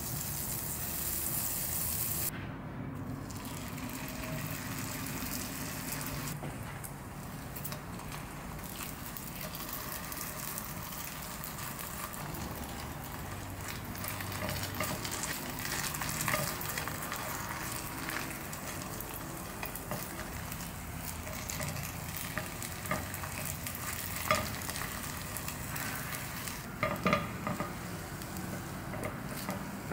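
Food sizzling as it fries in oil in a ceramic-coated frying pan, with silicone-tipped tongs scraping and tapping against the pan now and then; a few sharper clicks come near the end.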